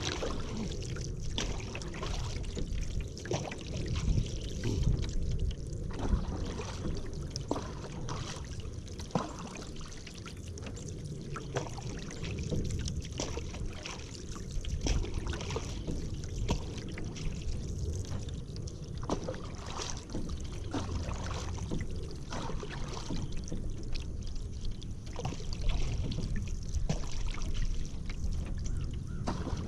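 A hand paddle dipping and pulling through river water, each stroke giving a short splash and trickling drips, over a low steady rumble.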